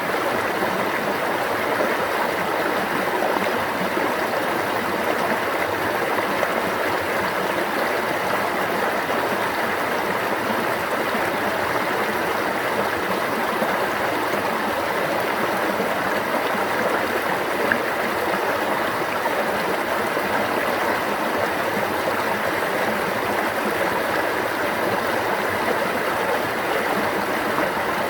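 Water of a stream running and babbling in a steady, unbroken rush.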